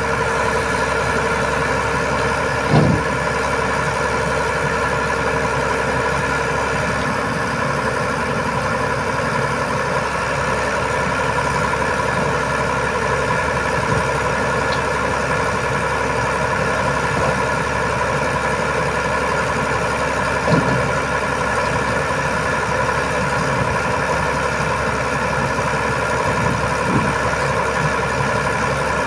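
Iveco boom truck's diesel engine idling steadily, with three short knocks: about three seconds in, about two-thirds of the way through, and near the end.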